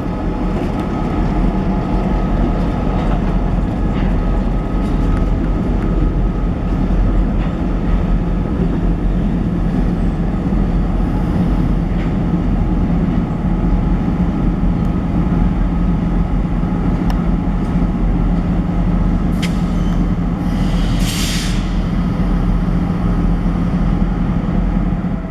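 Diesel-hauled train rolling past close by: a steady locomotive engine drone with the rumble and clicks of wheels on the rails. A short burst of air hiss comes about 20 seconds in.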